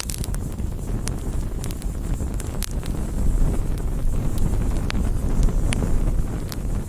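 Campfire burning: a steady low roar of flames with frequent sharp crackles and pops from the burning wood.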